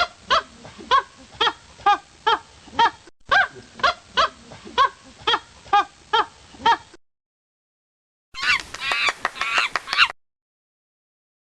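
A domestic bird giving a loud, regular series of calls, about two a second, for about seven seconds. After a short gap comes a different burst of busier, higher, overlapping calls lasting about two seconds.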